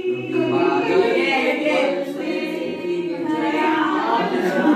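A group of young people singing a Hindi film song together without accompaniment, many voices at once.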